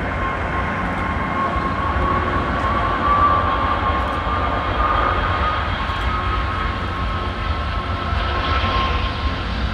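Jet airliner engines running steadily: a continuous low rumble under a high, slightly wavering whine.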